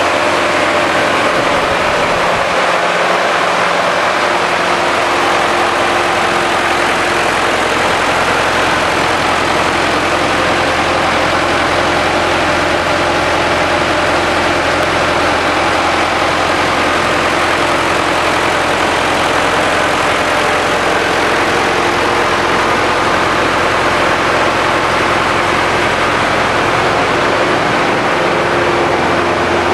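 Lister Petter HL4 diesel engine running steadily, driving a high-pressure water pump in bi-fuel mode on diesel and producer gas.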